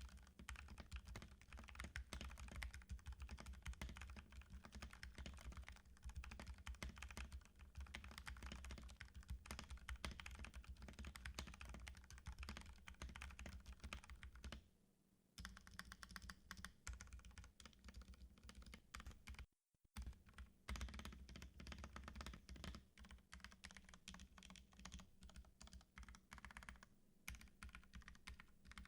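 Typing on a Vissles V84 75% mechanical keyboard: a fast, continuous stream of keystrokes that breaks off briefly twice.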